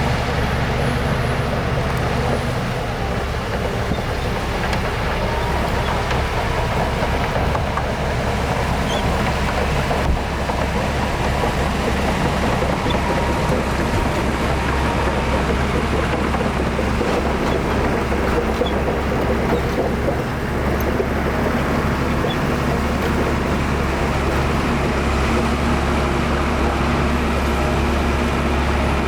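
Heavy diesel engines of earthmoving machinery running steadily under load, a deep continuous drone, with one brief knock about ten seconds in.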